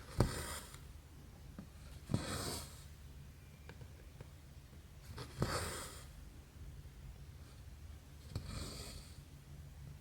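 Needle and thread being pulled through 11-count cross-stitch canvas, four times about three seconds apart: each starts with a sharp tick as the needle goes through and runs into a short hiss of thread drawn through the fabric. A low steady hum lies under it.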